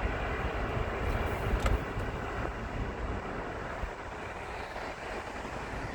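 Steady road noise of a car driving, a low rumble of tyres and engine, with a brief knock about one and a half seconds in.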